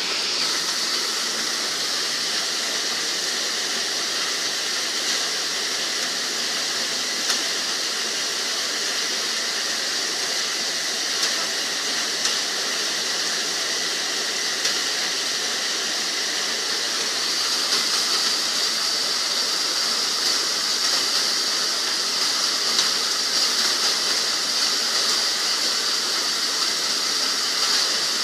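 Steady rain falling, a constant hiss with scattered sharper drop hits; it grows a little louder about two-thirds of the way through.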